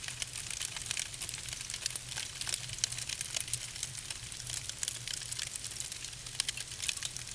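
Logs burning in a fireplace, crackling: a dense, irregular run of small sharp pops and snaps over a steady low hum.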